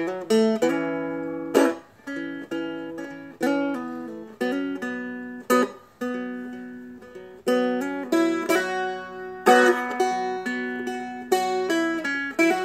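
Seagull Merlin strumstick played solo: a strum or picked note about once a second, with the melody notes and a steady drone ringing on between strokes.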